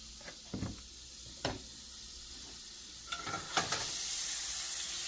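Butter sizzling in a very hot frying pan, with a few short knocks against the pan; the sizzle grows louder about three seconds in.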